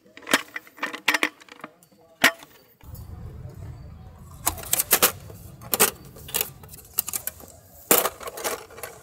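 A series of sharp clicks and clattering knocks, with a low rumble that starts about three seconds in.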